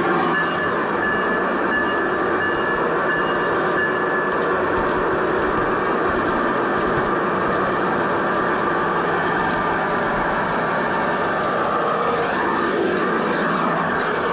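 G-scale model train running along its track, with a steady motor and wheel noise.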